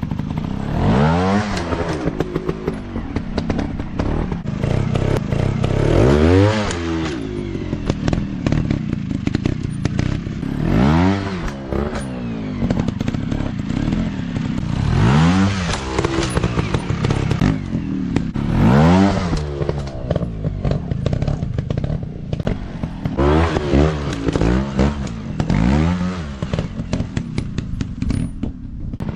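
Dirt bike engines revving in repeated throttle bursts, the pitch rising and falling every few seconds, with clattering and scraping between revs.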